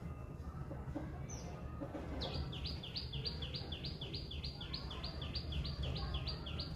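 Alexandrine parakeet calling: starting about two seconds in, a rapid run of short, falling, repeated call notes, about three a second, over a steady low hum.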